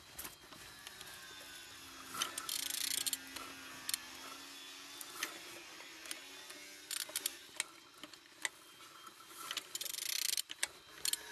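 Used car engine being turned over by hand with a wrench: irregular ratchet clicks and metallic scraping bursts as the crankshaft rotates. It turns freely, showing the engine is not seized.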